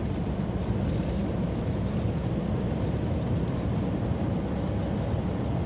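Steady road and engine noise inside a semi-truck cab cruising at highway speed: an even low rumble without changes.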